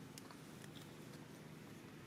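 Near silence: a faint steady low hum with a few faint, short clicks.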